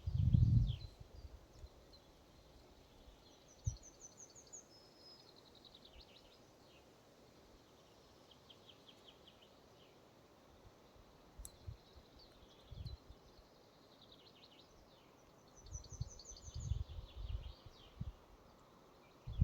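Forest ambience with small songbirds singing: a fast, high, descending trilled phrase a few seconds in, and again near the end. Short low rumbles come near the start and in the second half.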